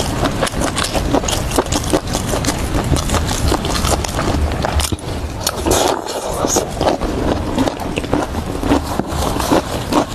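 Close-miked chewing of grilled vegetables and mushrooms: dense, irregular wet crunches and clicks over a low rumble.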